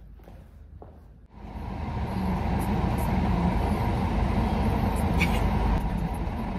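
Car engine starting about a second and a half in and then running steadily, heard from inside the cabin.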